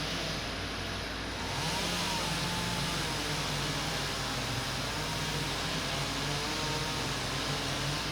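Engine running steadily, with a low wavering hum and a slight rise in level about two seconds in.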